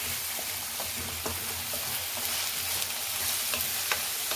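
Sliced onions and chopped tomatoes sizzling in hot oil in a kadhai: a steady frying hiss with scattered small pops and crackles.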